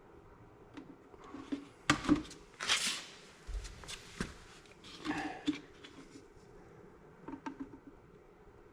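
Irregular light knocks and metallic clatter from tools and metal parts being handled, with a brief rustling noise about three seconds in and a dull low thud just after.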